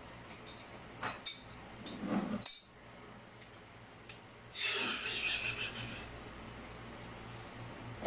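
Hand work on plumbing fittings: a few clicks and knocks, then a rasping rub lasting about a second and a half, the loudest sound in the stretch.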